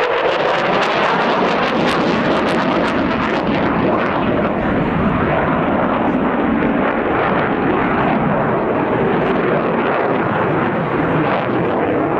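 Fixed-wing aircraft flying in an airshow display: a loud, steady rush of engine noise.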